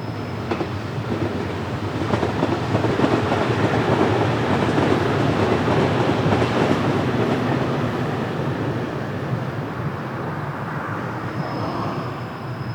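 Freight train passing close by, its steel wheels clattering over the rails. It grows louder over the first few seconds, then eases off toward the end.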